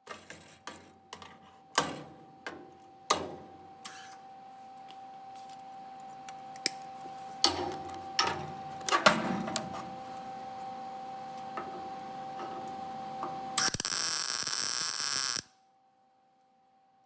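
Tools working on sheet metal: a run of sharp clicks and knocks, then a loud hissing burst lasting about a second and a half near the end.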